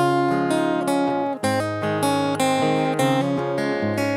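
Acoustic guitar playing the instrumental introduction to a gospel hymn, strummed chords with picked notes.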